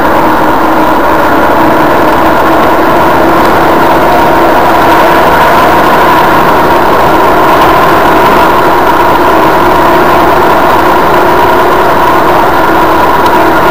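Suzuki Vitara's engine running steadily at cruise, with road noise, heard from inside the cabin; the sound is unchanging throughout.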